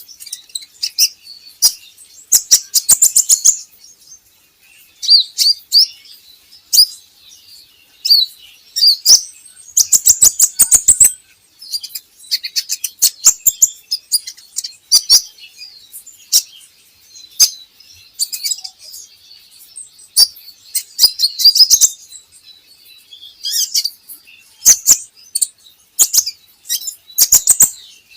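Sunbird of the kind Indonesian bird-keepers call kolibri ninja, singing: rapid high chirps and short trills in repeated bursts, a song played to prompt caged birds to sing.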